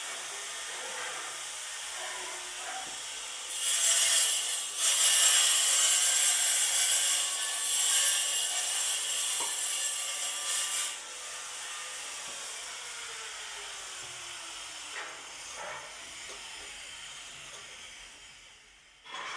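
A rough rasping, scraping noise over a steady hiss, loud for about seven seconds from a few seconds in, with a brief break early in that stretch.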